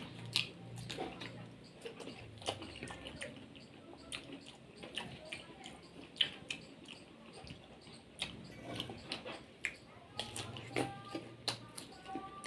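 Soft, wet squishing and irregular smacking clicks of juicy ice apple (toddy palm fruit flesh) being bitten, chewed and sucked, its watery juice running.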